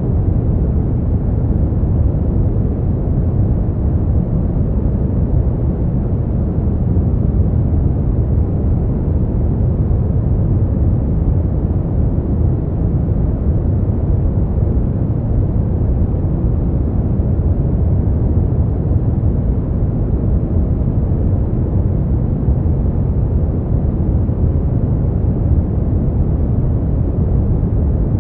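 Brown noise: a steady, deep hiss-like rumble with most of its energy in the low end and little treble, unchanging throughout.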